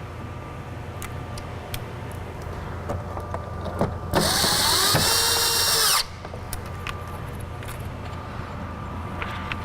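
Power drill spinning for about two seconds near the middle, its pitch rising as it speeds up and dropping as it stops, with small clicks of parts being handled before and after.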